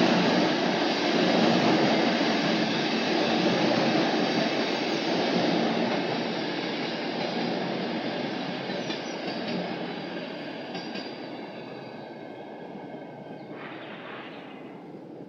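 Electric multiple-unit commuter train running over a railway bridge: a steady rumble of wheels on rail that fades gradually as the train moves away.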